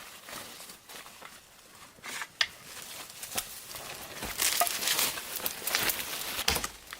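Crinkling and rustling with scattered sharp clicks, growing denser and louder about halfway through.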